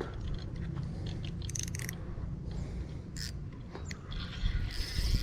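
Heavy baitcasting reel clicking and ratcheting in short bursts while a hooked catfish is played, with the drag loosened. A low rumble runs underneath.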